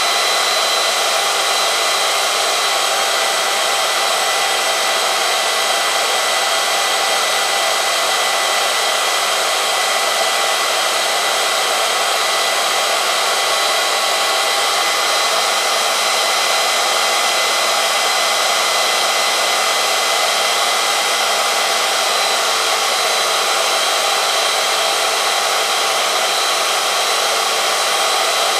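Oil-film strength test machine running steadily: its motor turning a shaft that rubs against a metal test sample in hot 10W-50 motorcycle oil, a steady whirring hiss with a few high thin whining tones.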